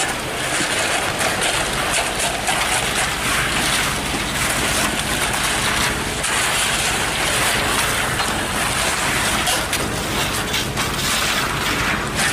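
Heavy truck diesel engine running steadily under a loud, continuous rushing noise with irregular scraping and knocking, typical of a cement mixer truck at work.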